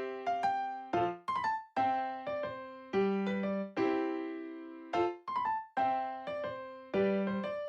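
Background music: a gentle piano melody of single struck notes, each ringing out and fading, in a repeating phrase.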